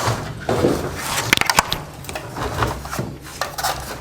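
Irregular knocks, clicks and rubbing as the spin tub of a semi-automatic washing machine's spinner is opened and worked loose by hand.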